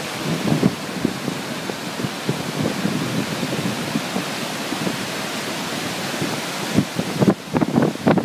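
Steady rushing of the Tama River swollen in typhoon flood, with gusts of wind buffeting the microphone in irregular low thumps. Near the end the rushing hiss drops away and the wind thumps grow stronger.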